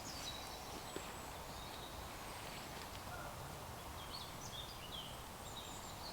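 Quiet woodland ambience with a few faint, thin, high bird chirps in the second half.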